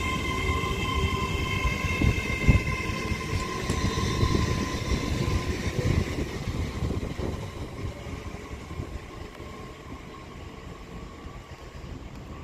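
Class 807 electric multiple unit pulling away. Several steady whining tones from its traction equipment fade out within the first few seconds, and wheels rumble and knock over the rails, with the loudest knock about two and a half seconds in. The sound dies down as the train draws away.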